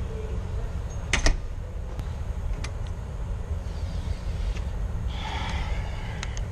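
Steady low road and engine rumble inside a moving vehicle's cabin, with a sharp double click about a second in and a few lighter ticks later, like cabin rattles.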